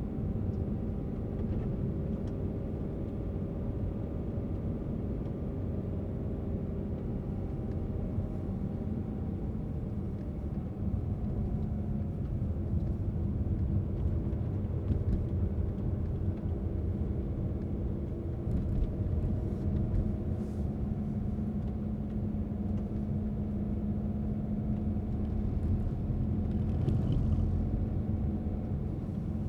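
A car driving at a steady pace: a continuous low engine and road rumble, with the engine's tones drifting slowly up and down in pitch.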